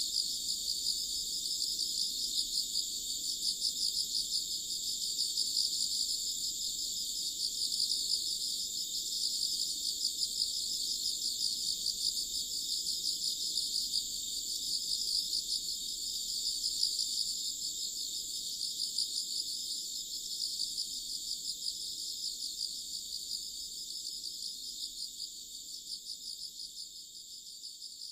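A dense chorus of insects chirping in a fast, steady trill, getting fainter near the end.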